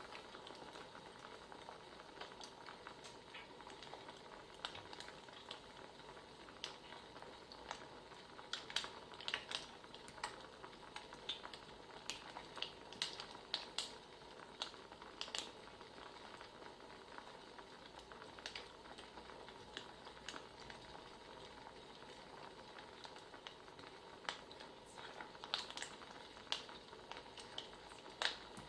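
Wood fire crackling: a faint steady hiss with irregular sharp pops and snaps, busier in spells.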